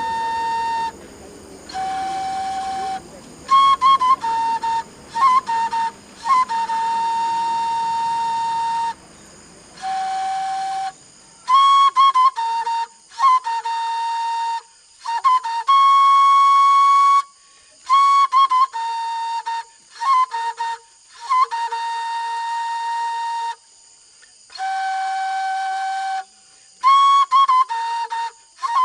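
A solo flute playing a slow melody of long held notes, many begun with a quick upward flick, with short breaks between phrases.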